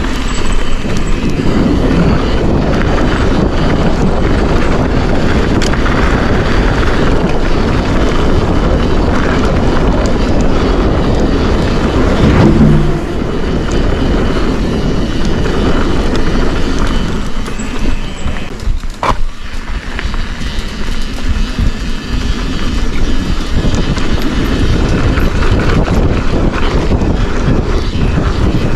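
Mountain bike rolling downhill on a dirt trail: loud, steady rushing of wind over the microphone with rattle and tyre noise from the bike, briefly quieter and choppier about two-thirds of the way through.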